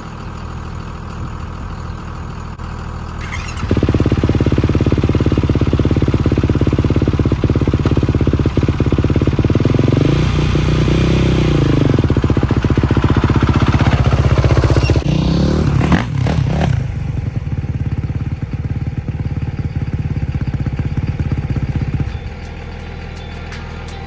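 An engine running loudly, which comes on suddenly a few seconds in. Its pitch rises and falls twice near the middle, as it is revved, before it eases off near the end.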